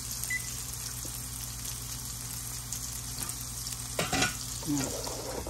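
Salmon and onions frying in oil in a nonstick pan with a steady sizzle, and a spatula stirring and scraping through them about four seconds in.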